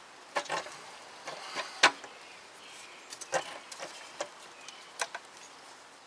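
Handling noise from a hose being worked onto its fitting in an engine bay: a scattered series of short clicks and knocks, the sharpest a little under two seconds in.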